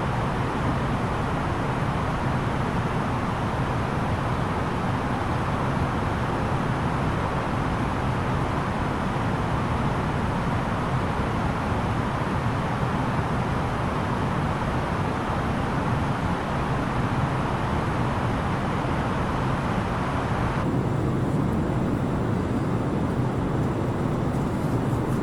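Steady cabin roar of an Airbus A330-900neo airliner in flight during descent: engine and airflow noise heard from inside the passenger cabin. About 21 seconds in, the higher hiss drops off abruptly while the low rumble carries on.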